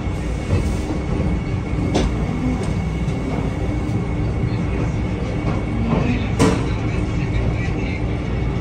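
Vande Bharat Express electric train heard from inside a chair-car coach as it pulls away from a station: a steady low rumble and hum, with two sharp clicks along the way.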